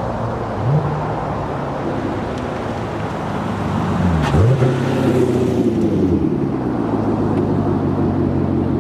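2018 Corvette Stingray's 6.2-litre LT1 V8 running through a straight-piped muffler-delete exhaust. There is a quick blip about a second in, a dip and rise in pitch around four seconds in, and then a steadier, slightly louder drone.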